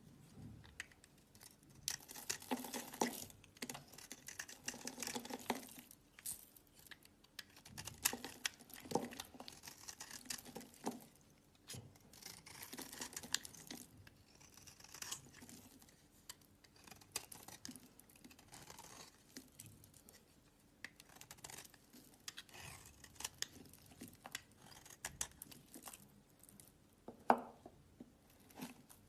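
Slime being squeezed and stretched by hand, giving irregular bursts of sticky crackling and clicking, with one louder click near the end.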